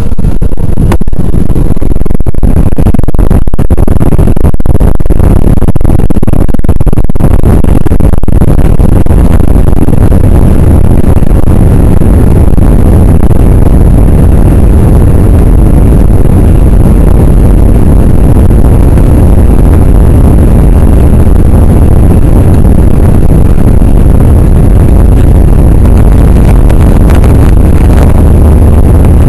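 Jet airliner engines at takeoff power: a loud, steady, low rumbling roar. Irregular crackling knocks run through it over roughly the first eight seconds.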